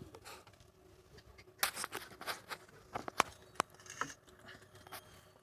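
A quick irregular run of sharp clicks and light knocks, about a dozen over two or three seconds, over a faint steady hum.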